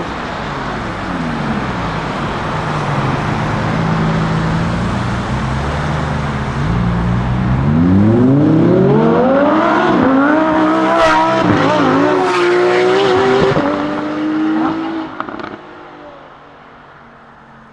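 Lamborghini Huracán STO's naturally aspirated V10 on track: the engine note falls and holds steady, then climbs hard through several quick upshifts under acceleration. It fades away near the end.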